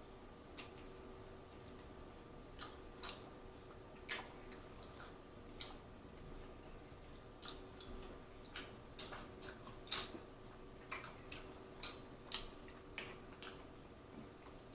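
Mouth sounds of a person chewing rotisserie chicken: irregular soft wet clicks and smacks, a fraction of a second to about a second apart.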